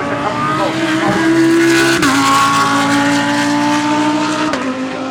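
GT3 race car accelerating hard, its engine note climbing steadily in pitch, with a sharp upshift about two seconds in and another near the end.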